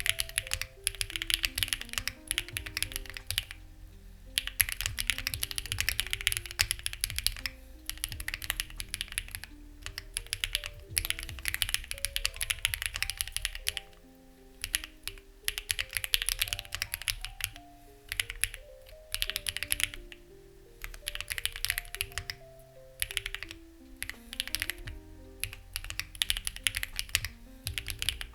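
Typing on a Lucky65 v2 mechanical keyboard with stock, unlubricated HMX Ziwei switches and clone CMK keycaps: fast runs of keystrokes with short pauses every few seconds, over soft background music.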